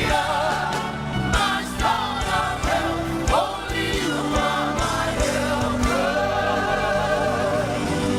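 Live gospel praise music: voices singing together over a band with bass and a steady drum beat.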